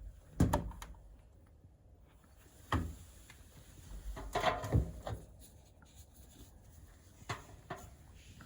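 A few separate knocks and clunks: a sharp one about half a second in, another near three seconds, a cluster around four and a half seconds, and two lighter ones near the end.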